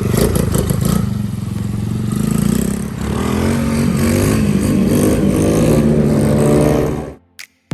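Coolster 110cc dirt bike's small single-cylinder four-stroke engine running on a test ride after carburetor and spark plug replacement, its pitch wavering with the throttle, easing off about three seconds in and picking up again. The sound cuts off suddenly near the end.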